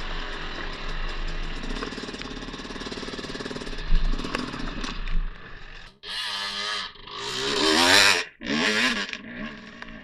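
Dirt bike engine running steadily. After about six seconds the sound cuts off abruptly, and then the engine revs with its pitch rising and falling, loudest near the end.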